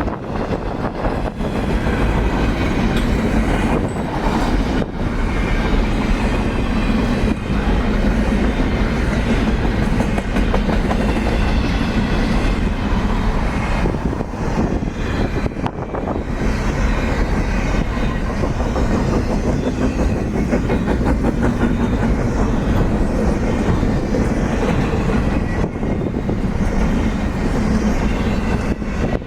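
A train rolling past at close range, a steady heavy rumble with the rhythmic clickety-clack of wheels over rail joints.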